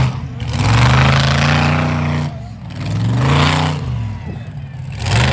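Monster truck engine revving hard in repeated throttle bursts. The pitch climbs and falls back about three times, with a fresh rise just before the end.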